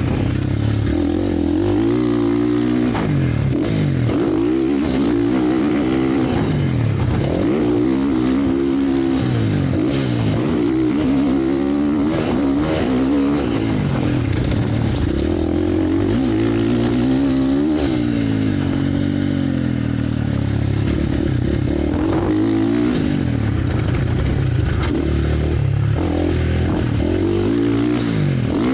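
Motocross motorcycle engine running hard, its pitch rising and falling again and again as the throttle is opened and closed.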